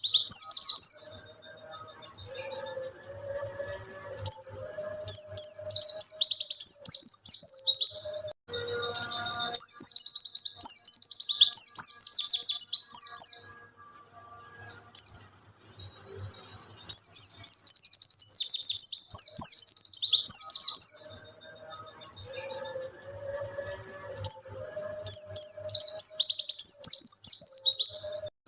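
Pleci (white-eye) song: loud bursts of rapid, high chattering twitters lasting a few seconds each, with short quieter pauses between them. The same sequence of phrases comes round again about halfway through, as in a looped training recording.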